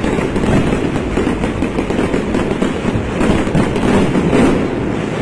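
Fireworks display: a dense, continuous barrage of bangs and crackling bursts overlapping without a break.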